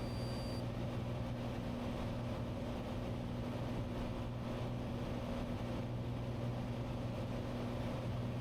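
Steady drone of a Cessna 182's piston engine and propeller in flight, heard from inside the cockpit, with an even low hum throughout.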